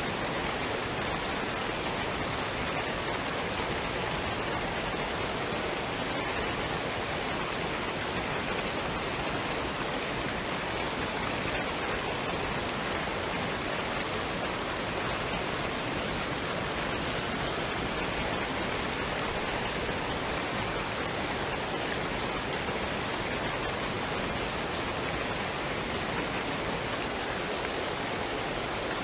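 Waterfall and stream water rushing in a steady, even roar with no changes.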